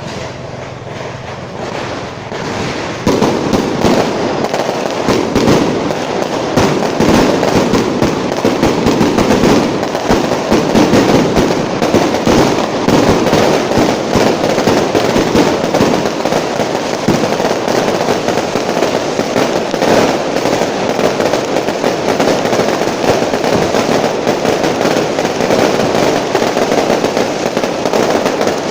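Fireworks going off in a dense, continuous barrage of rapid crackling bangs, which grows louder about three seconds in and keeps going without a break.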